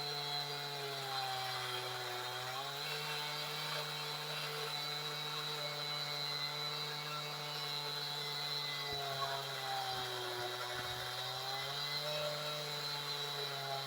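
Chainsaw engine on a chainsaw mill running steadily under load as it rips along a spruce log, its pitch sagging a little and recovering twice as the cut loads the saw.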